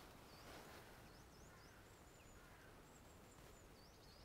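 Near silence: a quiet outdoor hush with faint, high bird calls, short curling chirps and thin level whistles, repeated several times.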